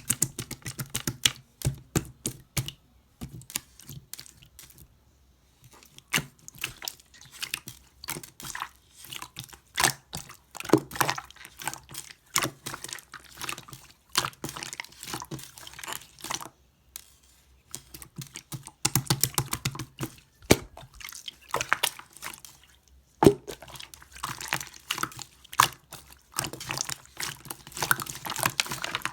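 Orange slime with gold pearl pigment being squeezed, folded and poked by hand, making dense runs of wet clicks and air-bubble pops in bursts, with brief pauses.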